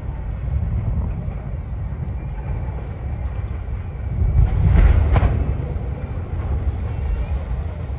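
Deep, continuous rumble of a demolished power-plant stack and boiler structure coming down, swelling louder for about a second near the middle.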